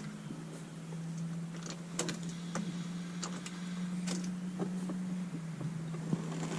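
Electric fuel pump of a 1999–2004 Mustang GT humming steadily as the key is cycled to prime the fuel system before a cold start after months of sitting, with light clicks from the key and cabin. The hum shifts slightly in pitch near the start and again about five seconds in.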